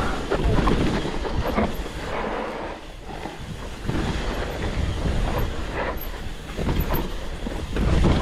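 Mountain bike rattling and clattering down a rough trail, its tyres crunching and sliding over loose dirt and rocks, with wind noise on the camera's microphone.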